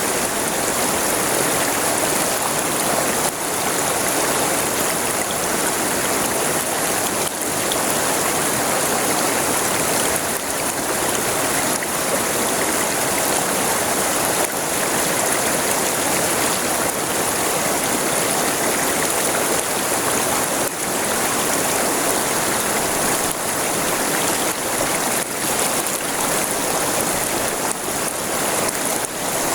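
River water flowing steadily over a streambed: a continuous rushing and splashing with no breaks.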